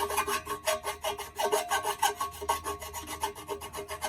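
Hand-held electric drill boring through a steel plate, the bit grinding with a rapid rhythmic rasping chatter of about eight to ten strokes a second as it cuts an offset, interrupted hole where only the cutting lips bite.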